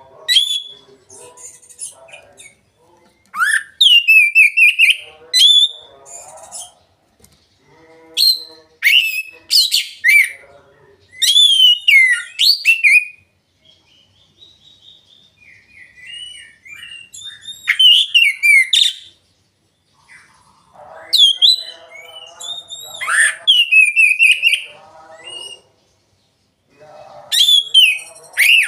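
Oriental magpie-robin (kacer) singing loud, clear phrases of rapid whistles, slurred gliding notes and chattering, in bursts of a second or two separated by short pauses. This is the kind of open, ringing song played as a lure to prompt young magpie-robins to sing.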